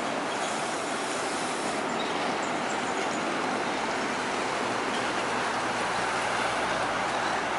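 Steady rush of tyre and engine noise from heavy trucks and other traffic on a toll road, with a low engine drone building from about five seconds in as a truck comes close.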